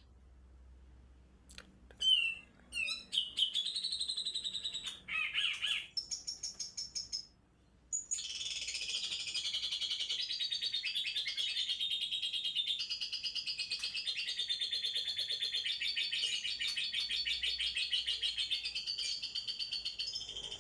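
Young white-rumped shama (murai batu) singing: after a quiet start, a few separate varied whistled phrases, a brief pause, then from about eight seconds in a long, fast, unbroken run of rapid chattering song.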